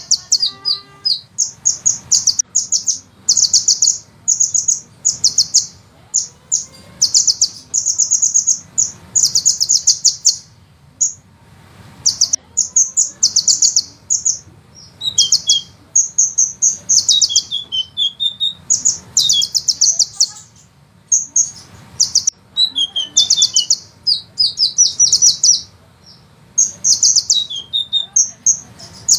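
Sunbird singing: rapid high-pitched trills, each about a second long, repeated in quick succession with short gaps, some ending in a few lower falling notes.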